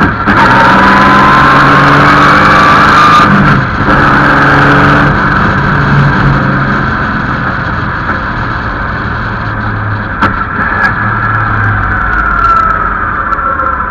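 Vintage Bentley racing car's engine heard onboard, accelerating hard with rising pitch and wind rush on the microphone. A brief dip about three and a half seconds in is typical of a gear change. The engine then eases off, its pitch and loudness falling as the car slows.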